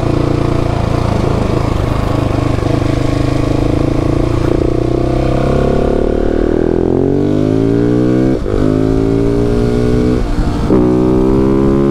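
Motorcycle engine running steadily under way, then accelerating from about five seconds in, its pitch climbing, with two brief breaks as it shifts up a gear. Wind rush is heard alongside.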